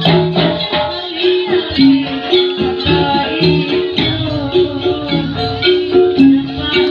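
Loud Javanese gamelan-style music for a barongan dance: a melody of struck metallophone notes over rhythmic percussion.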